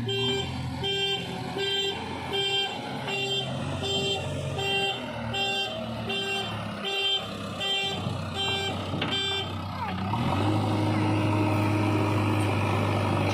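Reversing alarm on a JCB 3DX backhoe loader beeping about twice a second over the running diesel engine, stopping after about nine seconds. Then the engine revs up and holds a steady higher speed.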